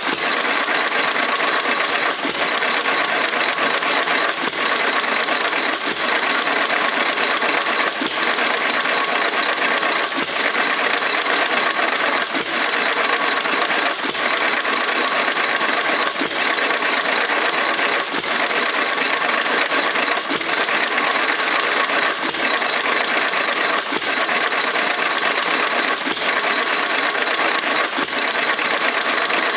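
1925 Jaeger 2 hp single-cylinder hit-and-miss engine running, firing with a sharp stroke about once every two seconds over continuous mechanical running noise, coasting on its flywheels between firings as the governor holds it at speed.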